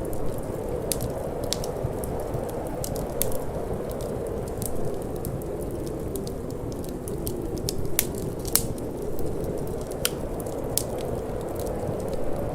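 Wood fire crackling, with irregular sharp snaps and pops, a few louder ones, over a steady low rushing of wind.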